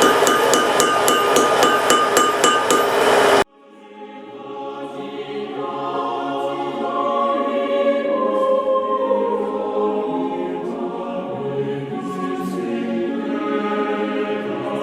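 Hammer blows ringing on an anvil, about three a second, over a steady rushing noise, cut off abruptly after about three seconds. Then a choir sings sustained chords, without instruments.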